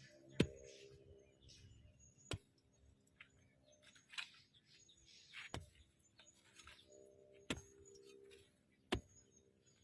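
Five sharp clicks or knocks, one every one to two seconds, over faint bird chirping.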